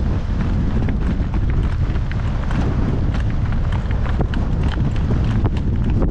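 Wind buffeting the microphone with a heavy low rumble, over the hoofbeats of a shod horse on the move, heard as many short sharp ticks.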